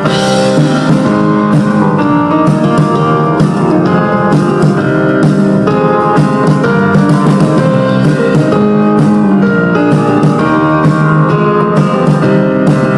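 Live folk-rock band playing an instrumental passage with no vocals: guitar over a steady drum beat, loud and continuous.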